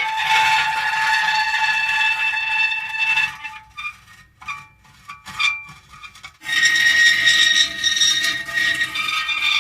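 Metal creaking: drawn-out pitched creaks and squeals for about three seconds, then a broken stretch of short squeaks and clicks, then a dense creak again from about six and a half seconds in.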